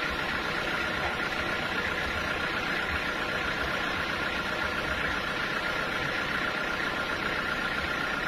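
Sawmill machinery running steadily: a constant mechanical hum with a steady high whine and no change in load.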